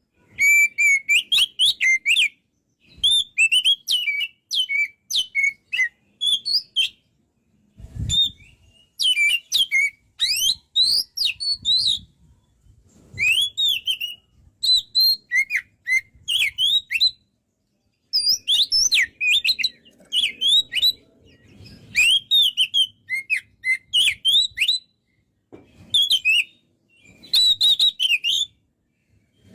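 Oriental magpie-robin (kacer) singing at full voice: rapid phrases of varied gliding whistles and chirps, delivered in bursts of one to two seconds with short pauses between. A soft low thump comes about eight seconds in.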